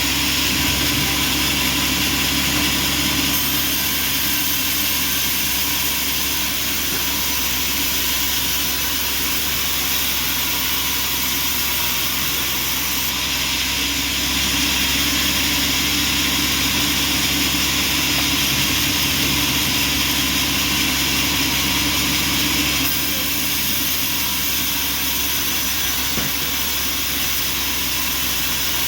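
Bandsaw sawmill running: a steady, loud machine noise with a constant hum and hiss, its high end shifting slightly a few times.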